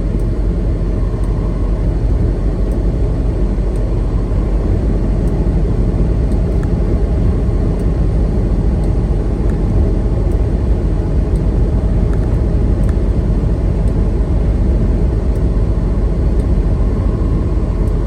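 Steady rumble of a semi-truck's engine and tyres heard inside the cab while cruising on the highway, with faint regular ticks about every second and a half.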